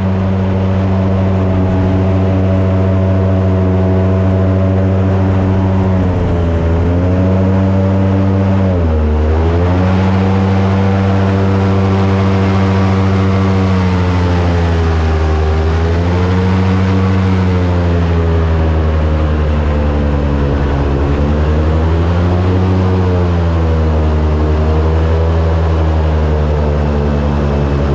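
Airboat's engine and propeller running loud and steady, the pitch dipping and picking back up about four times as the throttle eases off and opens again.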